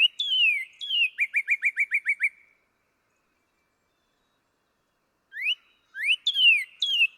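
A northern cardinal singing two songs. Each opens with a few loud slurred whistles and ends in a fast run of short, clear notes, about seven a second. The first song ends about two and a half seconds in, and the second starts about five seconds in.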